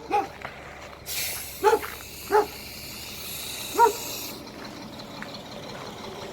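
A dog barking in short single barks, four times. Under them, a long hiss of released air from a truck's air brakes starts about a second in and cuts off after about three seconds.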